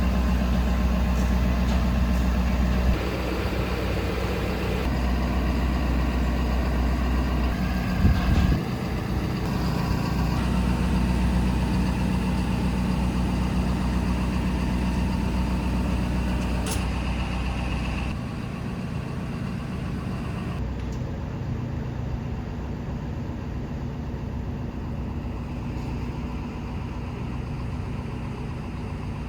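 A 6.7 L Power Stroke turbo-diesel V8 in a Ford F550 idling steadily, with a single knock about eight seconds in. The engine sound drops a little after about eighteen seconds.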